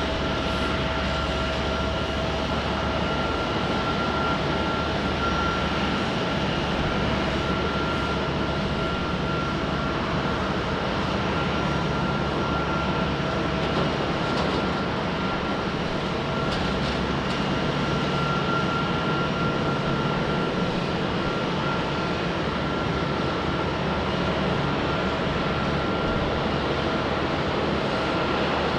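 Jet airliner engines running at a steady low power, a constant rushing noise with a steady whine over it that neither rises nor falls.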